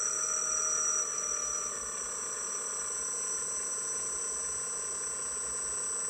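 Electric hydraulic pump of a 1/14 scale RC dump truck whining steadily as it drives the tipper bed at an adjusted, slower speed. The whine drops a little in pitch and level between one and two seconds in, then holds steady.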